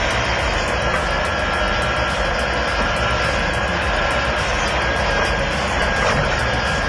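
Heavy construction machinery running, a steady, dense engine noise.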